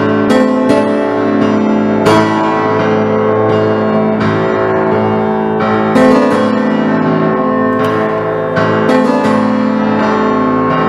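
Instrumental music led by piano, with sustained chords and notes struck about once a second or two.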